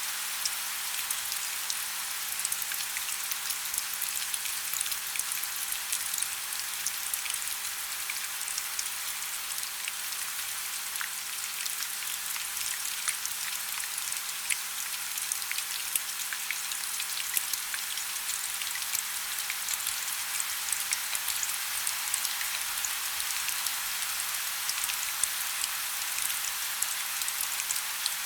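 Steady rain falling: a dense hiss of many small drop impacts, with individual drops ticking through it. A faint steady low hum sits underneath.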